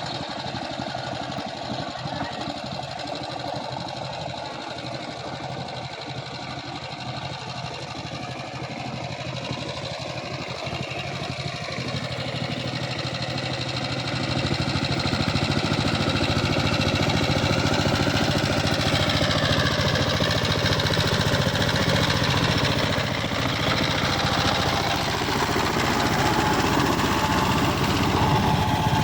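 Power tiller's single-cylinder diesel engine running steadily, getting louder about halfway through.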